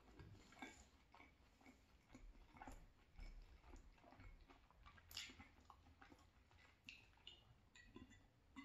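Faint close-up chewing of cheesy penne pasta, with small wet mouth clicks and smacks. Near the end a plastic water bottle is handled and drunk from.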